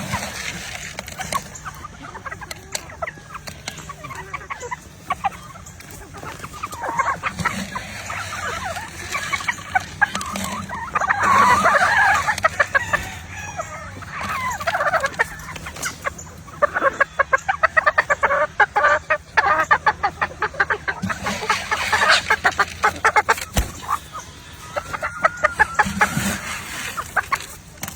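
Lacy Roundhead gamefowl clucking and calling throughout, with a rooster crowing.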